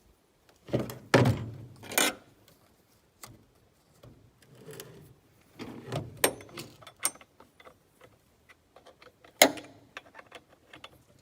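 Clinks, scrapes and knocks of a chainsaw's bar and chain being handled and fitted, in irregular bursts, with a cluster of loud knocks a second or two in and one sharp knock near the end.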